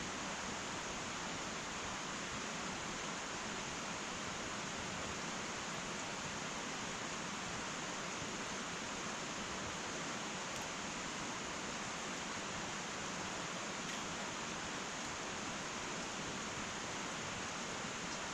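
Wood fire burning in an irori sunken hearth: a steady soft hiss with a couple of faint crackles about halfway through.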